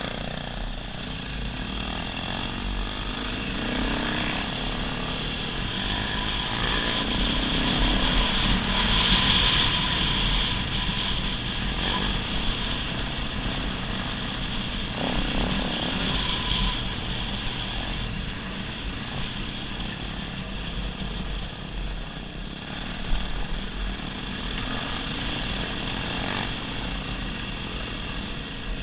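Dirt bike engine running while riding along a trail, a steady drone that builds over the first several seconds, then eases a little, with a sharp knock about 23 seconds in.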